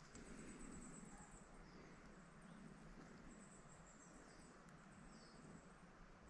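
Near silence with faint, high-pitched chirps and short calls of small birds, repeated every second or so.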